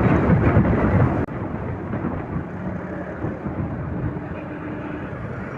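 Motorcycle running while riding, with wind rushing and buffeting over the microphone. It is louder at first and drops suddenly about a second in to a steadier, quieter rumble.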